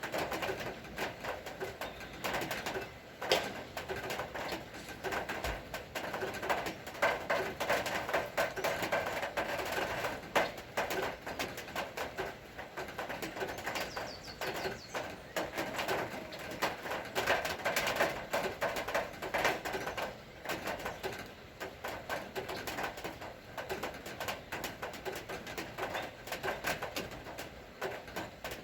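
Rain falling, with many irregular sharp drip taps.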